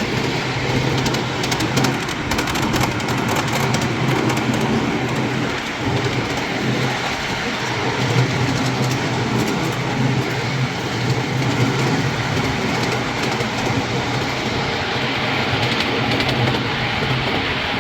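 Miniature ride-on railway train running along the track: a steady rumble of wheels on rail with a fast, fine clatter of clicks over it.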